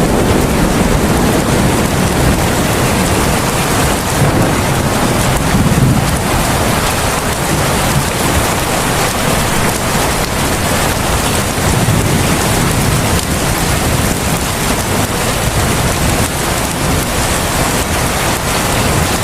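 Heavy rain falling steadily, a dense even hiss of downpour, with a low rumble that swells and fades beneath it.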